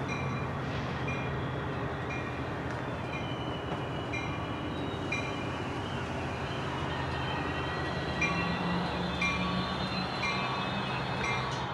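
NJ Transit diesel commuter train with its locomotive engine droning steadily, and a bell dinging about every two-thirds of a second. A deeper engine note comes in about eight seconds in.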